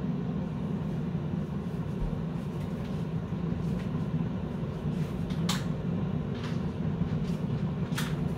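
Keurig K-Mini single-serve coffee maker rumbling steadily as its heater warms the water before brewing, with a few sharp ticks about halfway through and near the end.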